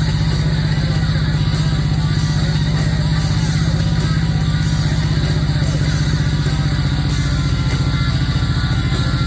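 Honda VTX V-twin motorcycle engine and exhaust running at a steady speed with a fast, even pulsing, mixed with music with guitar.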